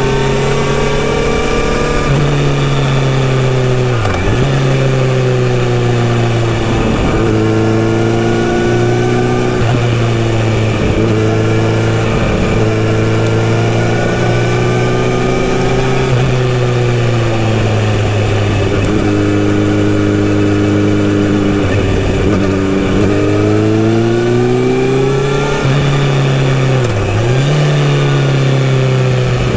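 Kawasaki Z900RS inline-four engine through a full-system sports exhaust, running under way. Its pitch rises under throttle and falls off again several times, with quick dips at gear changes about four seconds in and near the end.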